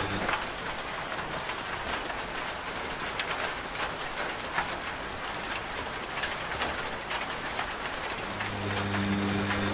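Steady rain with many small drop ticks. A washing machine's low motor hum cuts out at the very start and starts again about eight seconds in, as the drum pauses and turns again.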